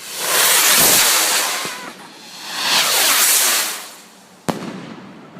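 Two firework rockets launching one after the other, each a loud hissing whoosh lasting about a second and a half that swells and fades. A single sharp bang follows about four and a half seconds in.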